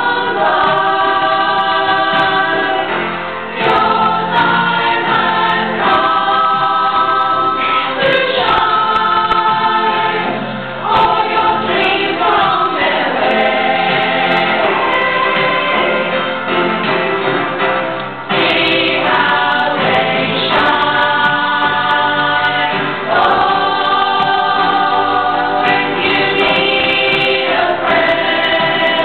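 Choir singing in phrases of held chords, with short breaks between phrases every few seconds.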